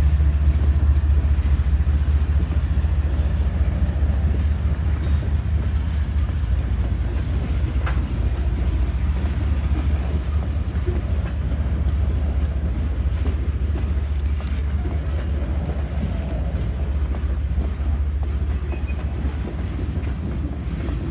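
Diesel locomotive of a freight train running as the train pulls out, a loud, steady deep rumble with the faint noise of the moving cars.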